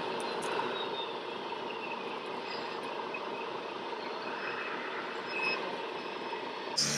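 Radio-controlled truck running: a steady mechanical hum with a faint motor whine that falls in pitch and then rises again, and one short beep a little after halfway.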